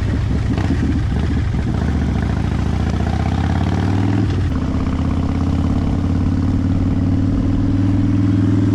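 Harley-Davidson Fat Bob's V-twin engine running under way. About four seconds in the pitch drops briefly at a gear change, then it climbs steadily as the bike accelerates.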